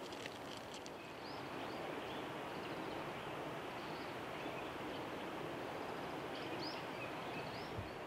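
Steady outdoor background noise with several short, faint, high-pitched bird calls scattered through it.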